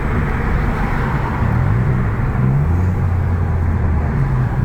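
Vauxhall Corsa VXR's 1.6-litre turbocharged four-cylinder engine running through a cat-back exhaust as the car drives, over steady road and tyre noise. The engine note shifts in pitch, then settles into a steady low drone a little over halfway through.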